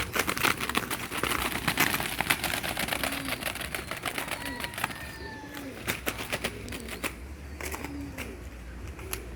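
Rapid, irregular clicking and rattling of ring doves fluttering inside a wire bird trap, busiest in the first couple of seconds and then thinning out.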